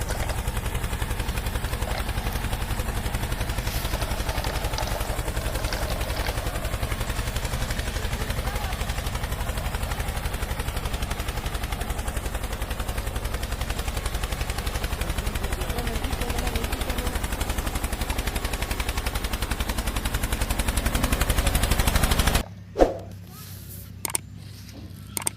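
Tractor engine running with a fast, even chugging beat that cuts off suddenly near the end, followed by a few sharp clicks.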